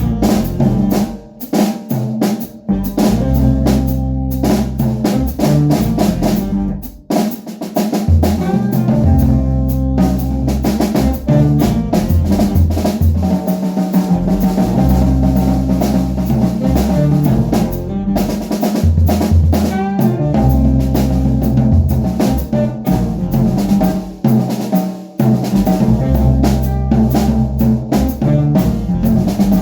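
Jazz band playing, the drum kit prominent with snare, rimshots and bass drum over held low bass notes and other pitched instruments.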